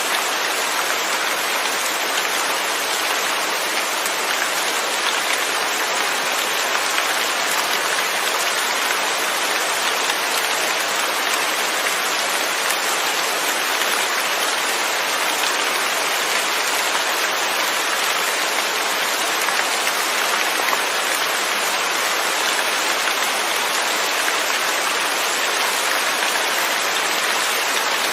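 Steady rain falling and pattering on a surface, an even hiss with no thunder.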